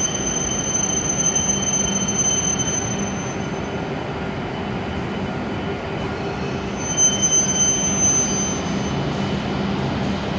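W7 series Shinkansen train running slowly into the platform and braking to a stop. It makes a steady rumble, with a thin high squeal at the start and again about seven seconds in.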